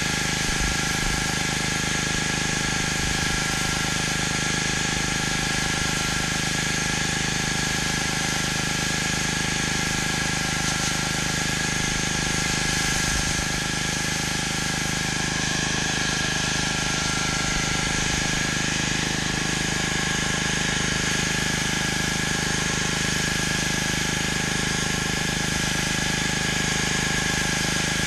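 Gas-engine pressure washer running steadily, with the hiss of the high-pressure water spray.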